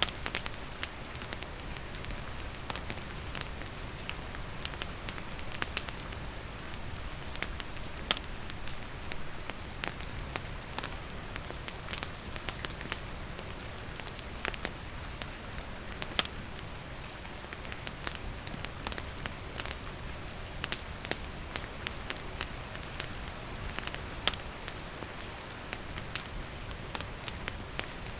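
Wood campfire crackling, with sharp pops scattered irregularly throughout, over the steady hiss of falling rain.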